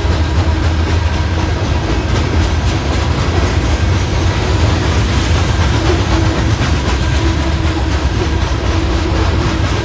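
Freight train of coal hopper cars rolling past: a steady low rumble of wheels on rail that stays even throughout.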